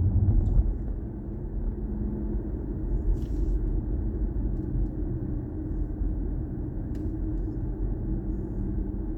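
Steady low road and tyre rumble inside the cabin of a moving BMW i4 M50 electric car, with no engine note. Two faint clicks are heard about three and seven seconds in.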